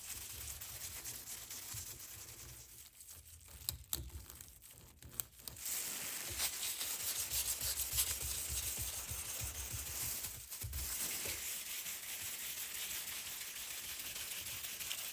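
Soft rubbing and crinkling of a cloth wiping over the steel blade during cold bluing, with a few light clicks about four and five seconds in.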